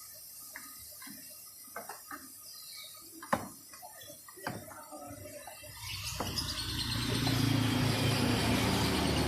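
Scattered light clicks and knocks, then about six seconds in a steady low hum starts under a loud hiss that swells over a second or two: a motor running with a rushing spray.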